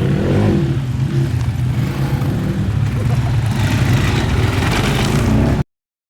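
250 cc CrossFire dirt bike engine running steadily under way on a trail ride. The sound cuts out abruptly near the end.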